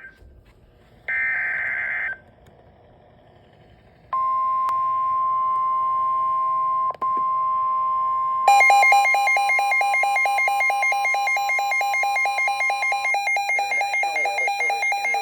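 NOAA Weather Radio warning alert. About a second in comes a short buzzy data burst. From about four seconds in the steady warning alarm tone sounds, briefly interrupted near the middle. From about eight seconds a weather radio receiver's loud, rapidly pulsing alarm beep joins in, signalling a severe thunderstorm warning.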